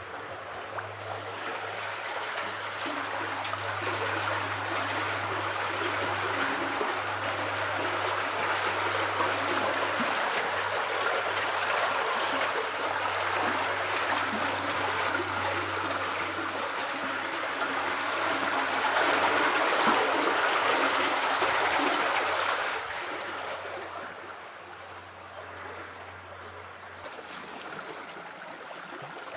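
Flowing water babbling steadily, a stream-like rush that grows louder about two-thirds of the way through, then drops sharply.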